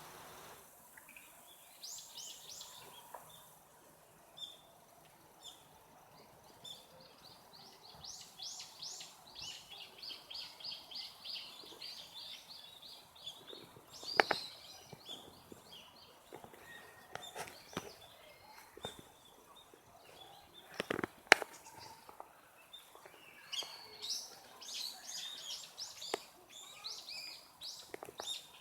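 Small songbirds chirping and twittering in quick runs of short, high notes, several birds calling over one another. Two sharp clicks stand out louder than the birdsong, one about halfway through and one about three-quarters of the way in.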